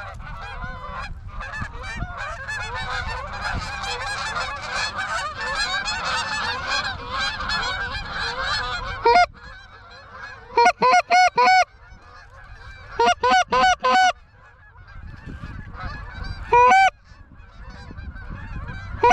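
A large flock of geese honking overhead, many overlapping calls at once. From about nine seconds in, the chorus thins and loud, close bursts of quick honks and clucks come in short runs, four times.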